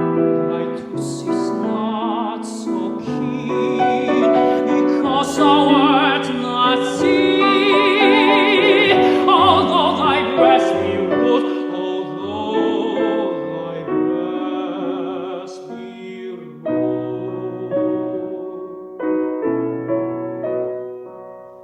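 Tenor singing a classical art song over piano accompaniment, the voice with a wide vibrato. For roughly the second half the piano plays alone and grows softer.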